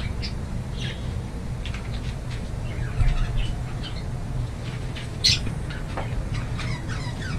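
Budgerigars chirping faintly and on and off, with one sharper chirp about five seconds in, over a steady low hum.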